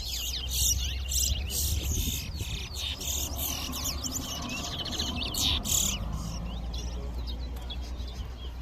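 Towa-towa finches (chestnut-bellied seed finches) singing fast, dense runs of whistled chirps and trills. The song is thick for about six seconds, then thins out. Each finished song counts toward the bird's tally in a singing race.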